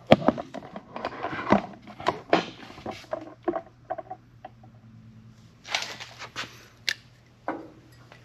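Handling noise: scattered close knocks, clicks and short scrapes as things are picked up, moved and set down, loudest near the start and again about six seconds in.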